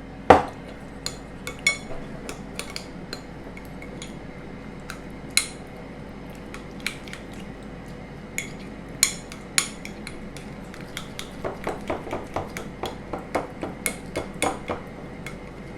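Spoon clinking and scraping against a bowl while stirring a thick sesame paste sauce: irregular sharp taps, the loudest just after the start, quickening into a run of rapid taps about eleven seconds in.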